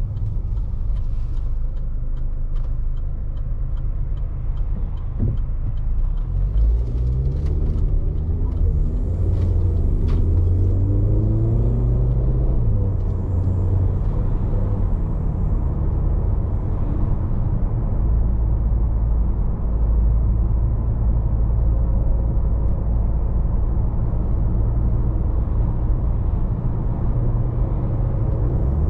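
2011 Range Rover Evoque's 2.0-litre turbocharged petrol engine pulling the car at road speed over steady tyre and road rumble. The engine note rises as the car accelerates, from about six to thirteen seconds in, then levels off. Light regular ticks sound in the first few seconds.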